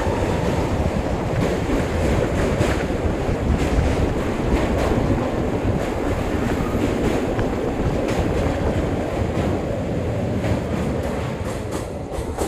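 Passenger express train running across a steel road-cum-rail bridge over a river, heard from inside a coach: a steady loud rumble of wheels with many sharp clacks, easing slightly near the end.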